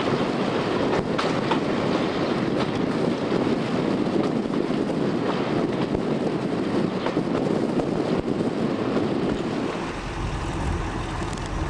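Train running at speed heard from an open carriage window: a loud, steady rush of wheel and wind noise with irregular clicks and knocks from the track, wind buffeting the microphone. About ten seconds in it gives way to a quieter, lower steady diesel engine rumble.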